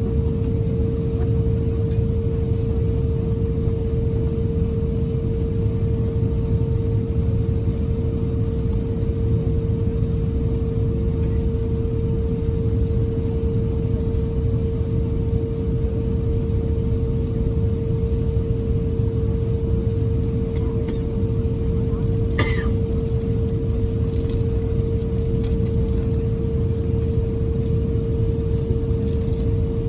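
Steady cabin noise inside an Airbus A350-1000: its Rolls-Royce Trent XWB engines and airflow give a deep rumble with a constant mid-pitched engine tone. A brief faint rising chirp comes about two-thirds of the way through.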